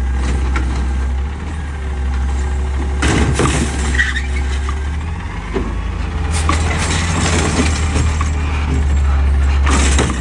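Peterbilt 520 garbage truck's diesel engine running with a steady low rumble. Several metallic clanks and knocks come over it, about three seconds in, around six to seven seconds, and near the end.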